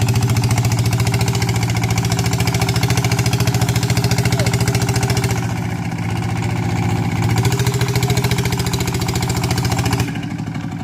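Single-cylinder diesel engine of a walk-behind farm tractor with an aftermarket exhaust pipe, running steadily with a fast firing thump. It eases off for a moment a little past halfway, picks back up, then drops away suddenly near the end.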